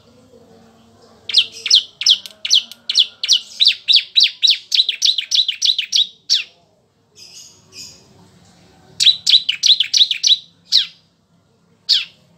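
Bar-winged prinia (ciblek) singing: rapid runs of sharp, downward-slurred chip notes, several a second. A long run is followed by a pause and then a shorter, quicker run, with one lone note near the end.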